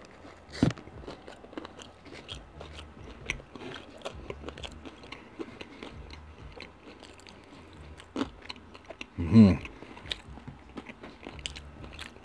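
Close-miked chewing of a bite of stuffed-crust pepperoni pizza: soft crunches of crust and many small wet mouth clicks. A brief hum comes from the eater about nine seconds in.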